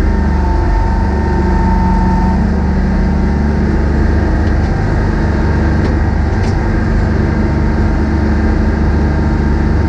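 Diesel engine of a Hopto H1900 hydraulic excavator running steadily, with a thin high tone over it for about the first two seconds.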